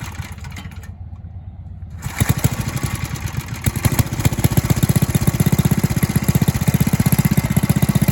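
Small single-cylinder minibike engine running on partial choke. It fires weakly at first, then picks up about two seconds in and runs strong and even, louder again from about four seconds.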